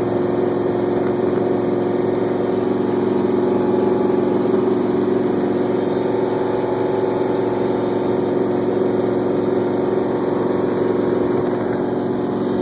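Helicopter running at a steady pitch: a constant engine and rotor drone with a strong hum and no change in speed.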